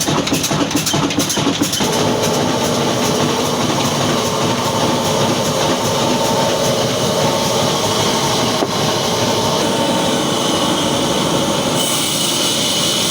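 Old Ruston Hornsby diesel engine running. It has a regular beat of about four pulses a second for the first two seconds, then settles into a steadier running sound with a hum.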